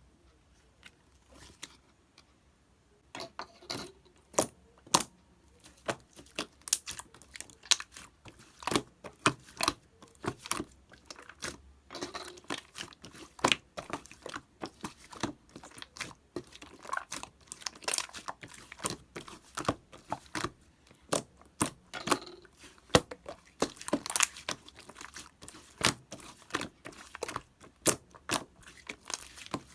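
Clear slime being pressed and squished by hand, giving a dense, irregular run of sharp clicks and pops that starts about three seconds in.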